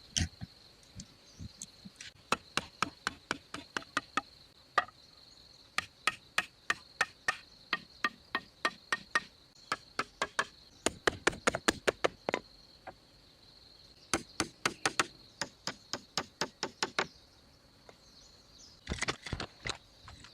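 Runs of sharp blows from a hand tool striking wood, about two to three a second with short pauses between runs. Insects buzz steadily and high-pitched underneath.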